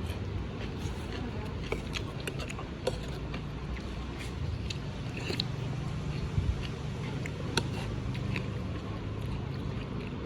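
Eating at a noodle-shop table: scattered light clicks and taps over a steady low background rumble.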